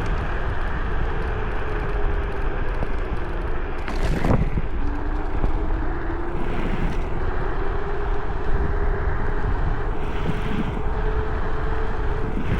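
Steady wind and ride noise from riding an electric scooter, with a faint motor whine that drifts slowly up and down in pitch. There is one sharp knock about four seconds in.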